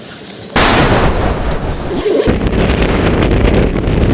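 Strong wind buffeting the microphone, coming in suddenly about half a second in as a loud, rumbling rush that keeps going, with rain and wind on an open mountain track.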